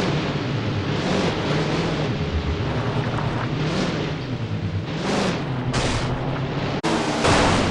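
410 sprint car V8 engines at racing speed, loud and rough-edged, swelling as cars go past a few times near the end. The sound breaks off abruptly for an instant about seven seconds in.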